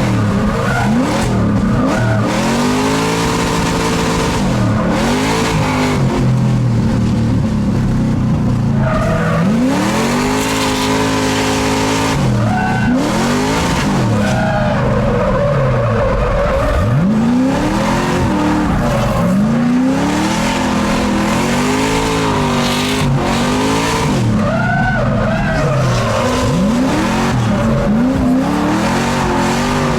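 LS3 V8 in a drift Miata, its revs climbing and dropping over and over, every second or two, with tyres skidding and squealing through the slides.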